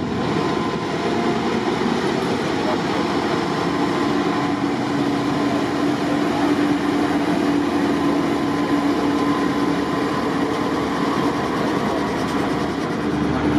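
The Indian Pacific passenger train running, a steady rolling rumble and rail noise with a faint steady hum.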